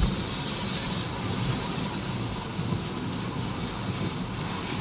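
Steady rush of wind and road noise from a moving vehicle, with a low rumble underneath.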